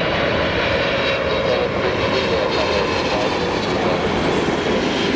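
Steady jet noise from a Boeing 777-300ER's twin GE90-115B turbofans as the airliner comes in to land, loud and even throughout, with a faint steady whine riding on it.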